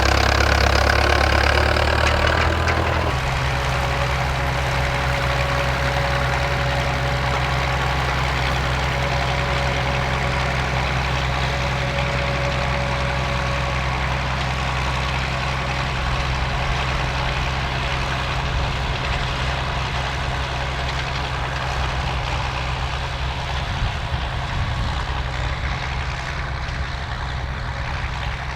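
Ford-built tractor engine running steadily, louder for the first three seconds and then settling to a slightly quieter even run.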